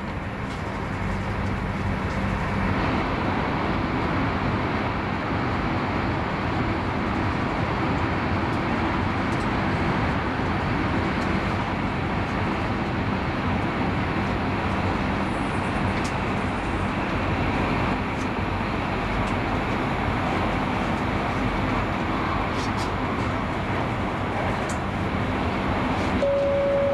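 Inside the carriage of an SJ X40 electric train running at speed: a steady rumble and rush from wheels and air. It grows louder about two seconds in as the train enters a tunnel. Near the end a single short tone sounds.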